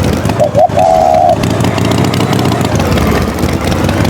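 Tractor engine running steadily. About half a second in, two quick rising chirps are followed by a held, wavering high tone.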